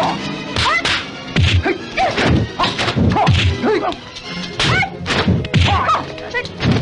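Kung fu film fight sound effects: a rapid string of dubbed punch and kick hits, about two a second, mixed with short shouts and cries from the fighters, over film score music.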